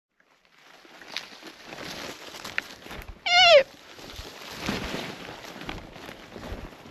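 A sika deer giving a single sharp alarm bark, a short shrill call falling in pitch, about three seconds in: the deer has detected the hunters. Rustling footsteps through scrub run underneath.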